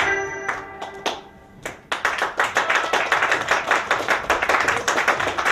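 The last notes of a piece of music ring out and fade, then an audience breaks into applause about two seconds in.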